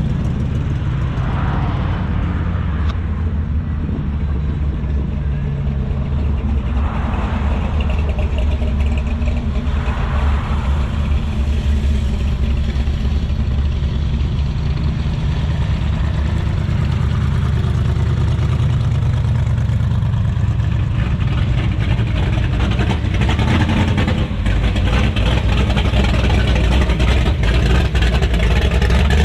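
A vehicle's engine running steadily at low speed, a deep continuous rumble, with a few brief rises in the middle range.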